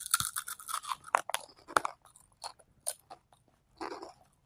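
Close-up crunching and chewing of Funyuns, crisp onion-flavoured corn snack rings, in irregular sharp crunches. They come several times a second at first and thin out in the second half.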